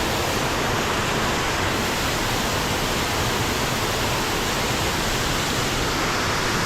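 Waterfall pouring steadily into a forest stream, a constant rushing of falling water.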